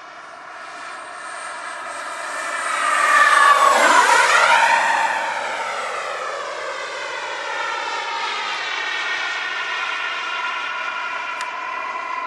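Gas-turbine engine of an RC model F-15 jet flying past. Its whine swells, peaks and drops sharply in pitch as it passes about four seconds in, then carries on steadily as the jet flies on.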